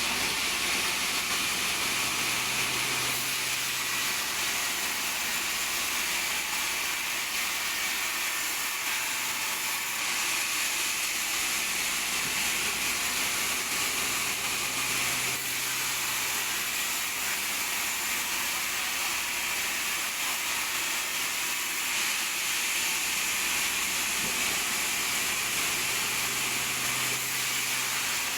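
Sawmill saw running through wood: a steady, loud hissing noise, with a low hum that swells for a few seconds roughly every ten seconds.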